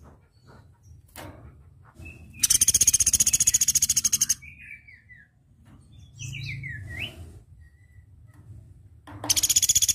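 Platuk beras woodpecker calling: a loud, very fast rattling trill of about two seconds starts about two and a half seconds in, and another begins near the end. Short falling notes come between the two trills.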